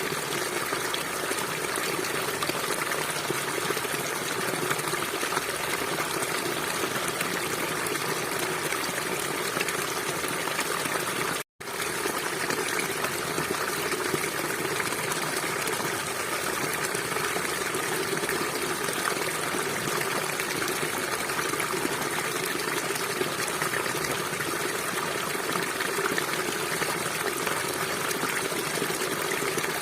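River water flowing and gushing steadily, with a momentary drop-out to silence about eleven seconds in.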